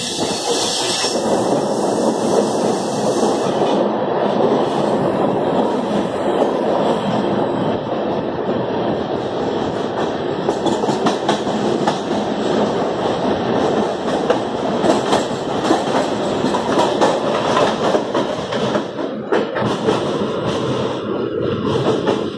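Passenger train running through a tunnel, heard from an open coach doorway: a steady rumble of wheels on the rails with a rapid clatter of clicks over the rail joints.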